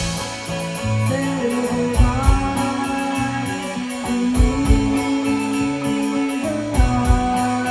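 Live band playing an instrumental passage: guitar chords and melody over a bass line and drum kit, with no singing.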